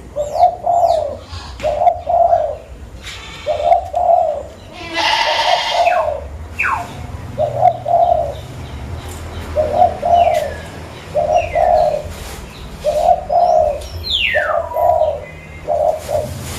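Zebra dove (perkutut) cooing: short groups of two or three low coo notes, repeated about every one and a half seconds. A few falling whistled chirps from another bird sound between them, and there is a brief rushing noise about five seconds in.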